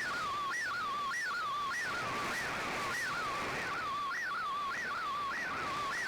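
Slow-scan television (SSTV) image signal received over shortwave radio: a warbling tone that swoops up and slides back down in the same shape about every 0.6 s, one sweep per scan line, over static hiss that swells briefly in the middle.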